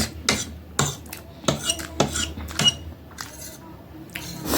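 Metal fork clinking and scraping against a dish while eating noodles: a run of sharp clicks, some ringing briefly, busiest in the first three seconds.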